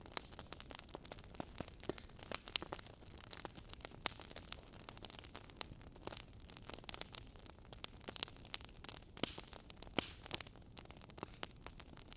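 Wood fire crackling: irregular pops and snaps, a few of them sharp and loud, over a steady soft hiss.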